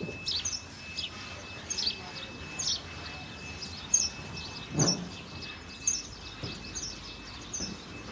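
Small birds chirping: short, high chirps falling in pitch, about one a second, over a faint steady high whine. A single dull knock sounds about five seconds in.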